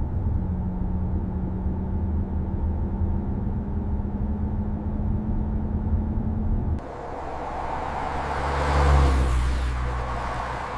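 A heavy engine running with a steady low drone and hum. About seven seconds in the sound changes abruptly to a vehicle passing by: a rumble that swells for about two seconds, then fades.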